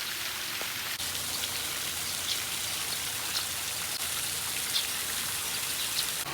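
Steady rain falling, an even hiss with scattered louder drops ticking.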